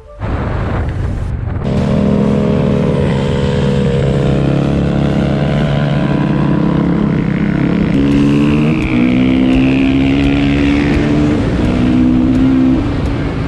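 Enduro motorcycle engine running loudly under way, holding steady revs with several jumps in pitch from about eight seconds on.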